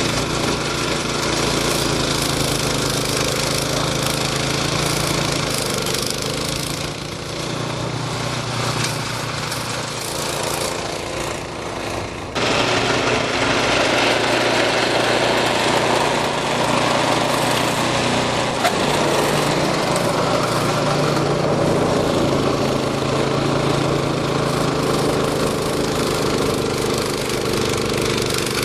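Snowblower engine running steadily while clearing snow. It eases off for a few seconds, then comes back suddenly louder about twelve seconds in.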